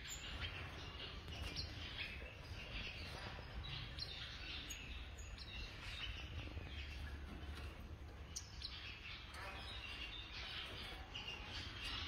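Many small aviary birds chirping, a busy scatter of short high calls, over a low steady rumble.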